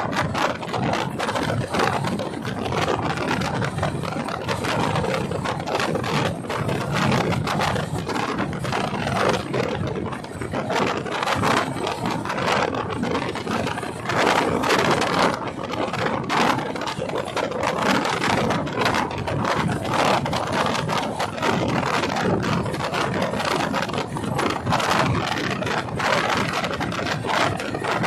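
Train running, with a steady mechanical clatter and rattling of wheels and carriages.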